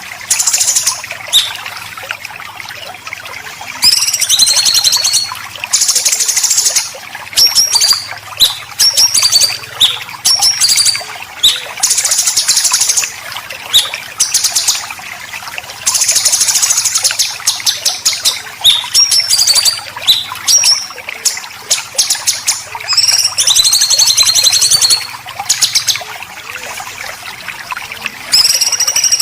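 Songbird singing besetan: loud, high-pitched bursts of fast, harsh rattling notes and short whistled glides, each burst a second or two long, repeated with short pauses between.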